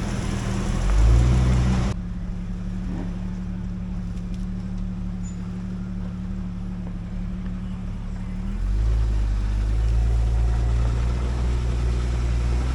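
Off-road 4x4 engine running at low speed on the trail, a steady low hum. The sound drops abruptly about two seconds in, and a louder, deeper rumble comes in about two-thirds of the way through.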